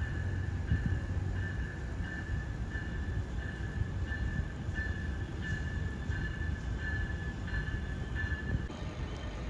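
A train passing with a steady low rumble. Over it a high tone repeats a bit more than once a second and stops near the end.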